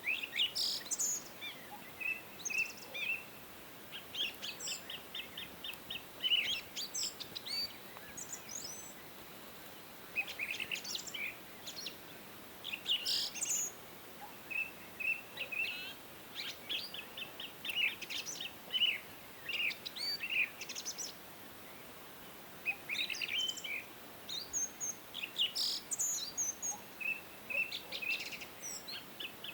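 Songbirds singing: bursts of rapid high chirps and short trilled phrases every second or two, over a faint steady hiss.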